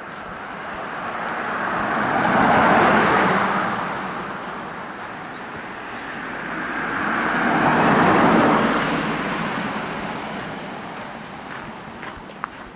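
Two cars pass by one after the other, each a swell of tyre and engine noise that rises and fades over a few seconds.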